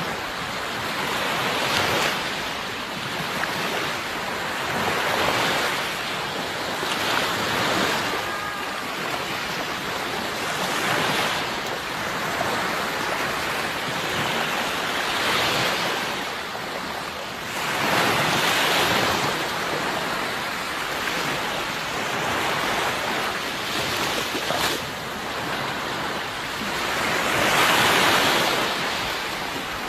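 Sea waves washing onto the shore in a continuous surf wash, swelling and falling back every few seconds. The biggest swells come a little past halfway and near the end.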